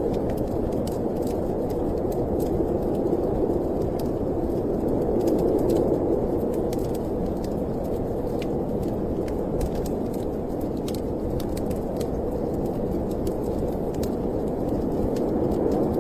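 Steady snowstorm wind noise, with a wood fire crackling over it in frequent small, sharp pops.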